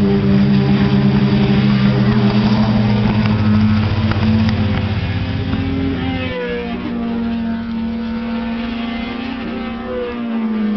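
Racing car engine running with a steady note. The note shifts to a different pitch about six seconds in and again near the end.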